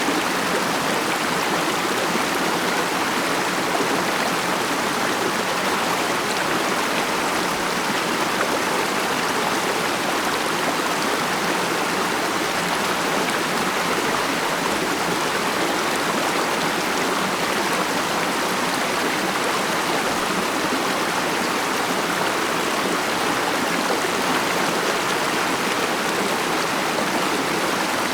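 A stream running over rocks: a steady, even rush and babble of flowing water with no break or change.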